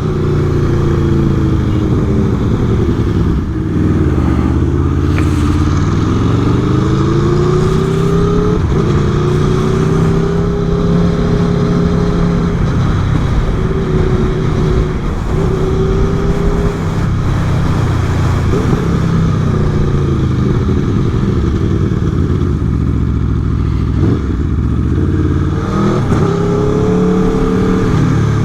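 Aprilia Tuono V4's V4 engine running under way, its pitch falling and climbing again several times as the bike slows, accelerates and changes gear, over a steady rush of wind noise.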